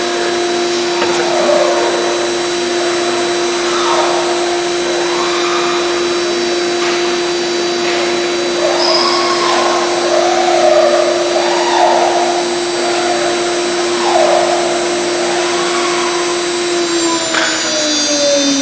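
CNC router spindle whining at a steady high pitch while its cutter machines aluminium, the cutting noise swelling and easing every couple of seconds as the tool moves through the work. Near the end the spindle winds down, its pitch falling.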